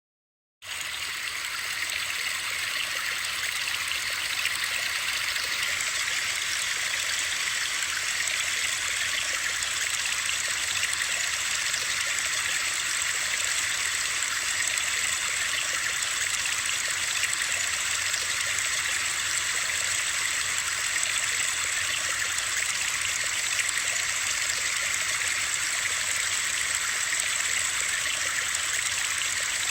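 Steady white noise like rushing water, starting suddenly about half a second in and then holding even, mostly hiss with little bass.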